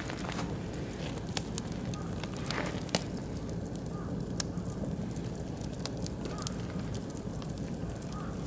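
Oak and beech wood fire burning in a barbecue grill: crackling, with a scattered handful of sharp pops over a steady low noise. The loudest pop comes about three seconds in.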